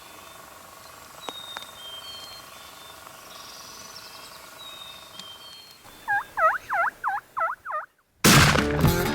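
Wild turkey calling: a quick run of about six loud, looping notes, over faint songbird chirps. Just after, music cuts in loudly.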